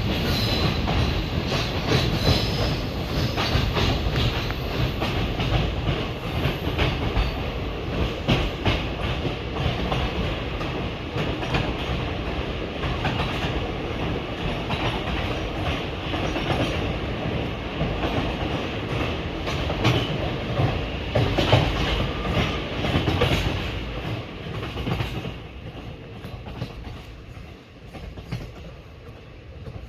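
Passenger train running on the rails, wheels rumbling and clacking over the rail joints in an uneven run of clicks. It grows quieter over the last few seconds.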